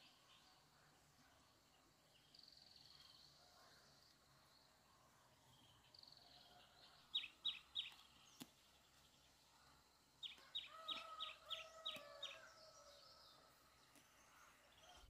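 Faint birdsong: short bursts of quick, high chirps and a brief trill, with a lower, drawn-out call under a run of chirps about ten seconds in.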